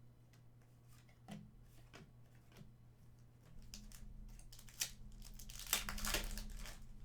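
Trading cards being handled with light clicks and rustles, then the crinkling tear of a card pack's wrapper being ripped open near the end.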